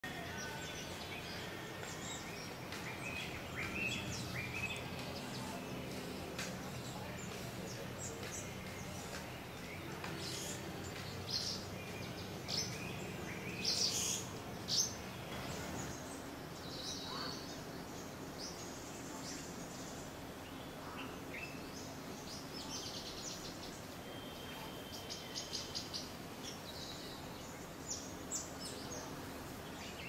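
Wild birds calling in short, high chirps and quick trills, scattered and loudest around the middle, over a steady low background hum.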